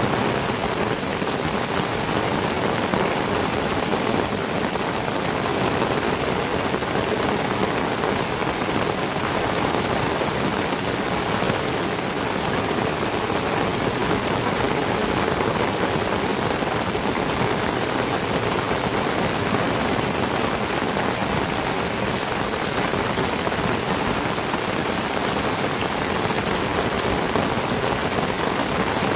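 Heavy tropical rain falling steadily on trees and foliage, a dense, even downpour with no letup.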